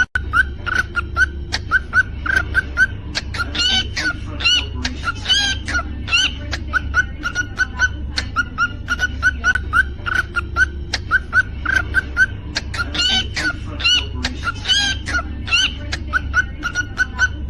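Cockatiel calling in a steady string of short chirps, two or three a second, twice breaking into runs of higher, rising whistled notes, over a low steady hum.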